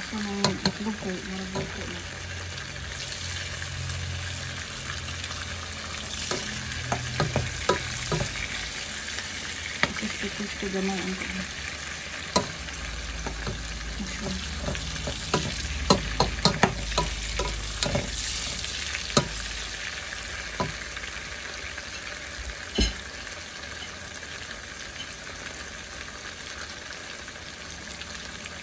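Mushrooms and vegetables sizzling as they fry in a metal pot, with tongs clacking against the pot as they are stirred. The clacking stops for the last several seconds, leaving the steady sizzle.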